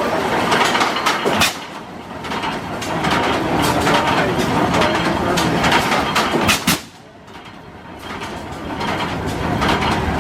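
1908 Hart-Parr 30-60's slow-turning, oil-cooled two-cylinder engine running with sharp exhaust reports. Two reports stand out as louder, about a second and a half in and near the middle, and the sound dips briefly after each.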